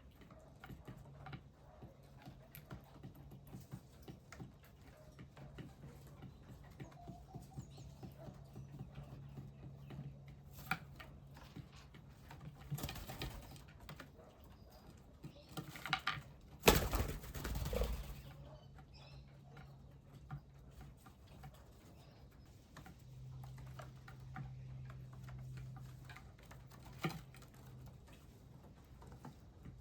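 Birds feeding at a backyard feeder and bird bath: many small scattered taps and clicks over a faint low hum, with one louder rush of noise lasting about a second, around 17 seconds in.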